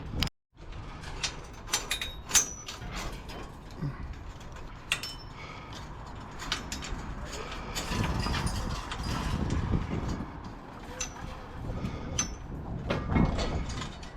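Scrap metal being handled and unloaded from a truck: scattered metallic clicks, clanks and rattles, with a low rumble swelling in the middle and again near the end.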